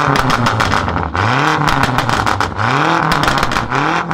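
Tuned BMW M5 F90's twin-turbo V8 being revved in repeated blips, the pitch climbing and falling again about once every second or so, with a dense crackle of pops from the exhaust.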